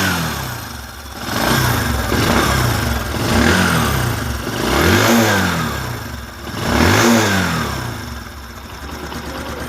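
Bajaj Discover 125's single-cylinder four-stroke engine revved four times by the throttle, each rev rising and falling back, then settling to idle near the end.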